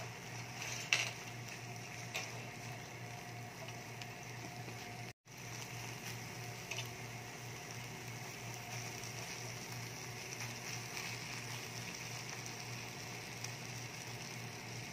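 Sardine, egg and tomato mixture sizzling softly in a nonstick pan while being stirred with a spatula, with a few light scrapes and taps of the spatula against the pan, the sharpest about a second in.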